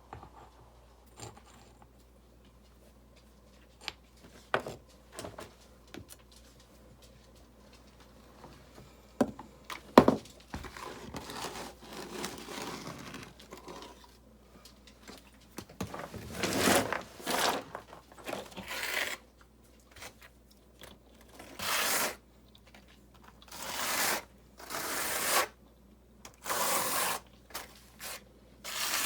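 Masonry work with river rock and mortar: scattered light knocks, one sharp knock about ten seconds in, then a run of scraping strokes, each about half a second to a second long, in the second half.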